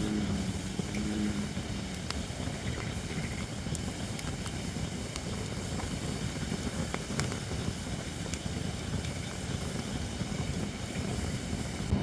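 Holly firewood burning in a campfire, giving sparse sharp crackles and pops over a steady low rumble.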